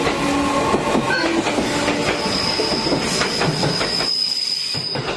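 JR Central electric commuter train running past along the platform, wheels clacking over the rail joints, with a steady high wheel squeal from about two seconds in. The low rumble falls away at about four seconds as the last car goes by.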